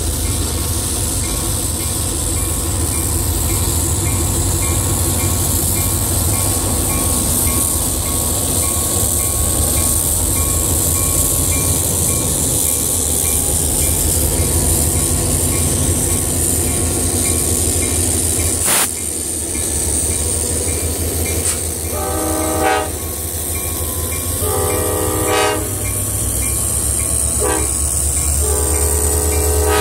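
Diesel locomotives and freight cars rolling slowly past close by, engines running steadily, with a single sharp knock about two-thirds of the way through. Near the end a locomotive air horn sounds the long-long-short-long grade-crossing signal, the last blast still sounding at the end.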